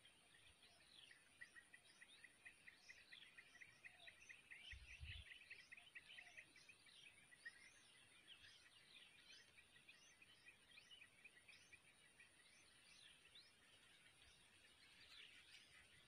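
Faint chirps and twittering of small birds, with a fast run of ticking notes in the first half, over a steady thin high whine. A brief low thump about five seconds in.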